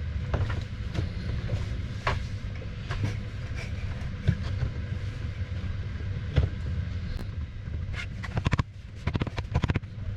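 Scattered clicks and knocks of hand work on fittings, then a quick run of rapid clicks near the end, over a steady low hum.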